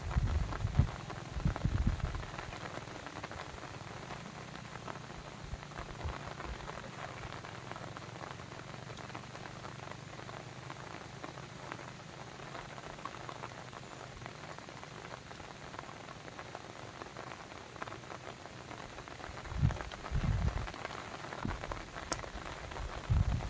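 Steady, dense patter of water, with a few deep low thumps in the first two seconds and again near the end.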